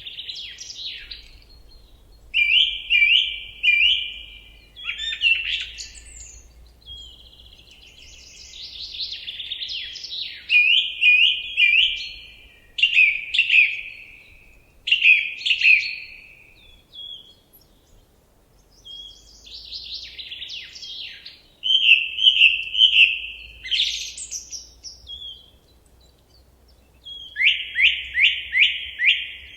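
A songbird singing in phrases of rapid repeated notes and trills, each phrase a second or two long with short pauses between.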